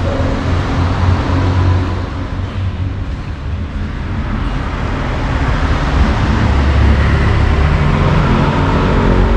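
Road traffic: motor vehicle engines running, a steady low rumble that grows louder about halfway through.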